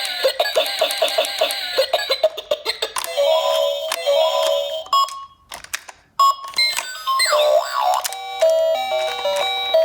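Electronic siren sounds from toy emergency vehicles, several at once: a rapid warble, then a two-tone alternating siren, a few rising wails, and stepped chime-like electronic tones near the end.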